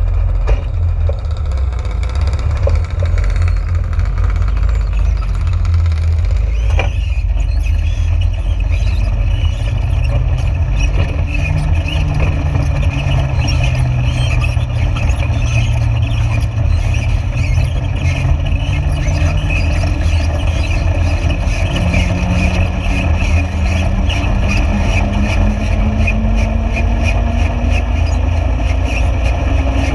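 A vehicle engine running over a heavy, steady low rumble; its note climbs slowly and evenly over the last twenty seconds, as when the vehicle gathers speed. A single sharp click comes about seven seconds in.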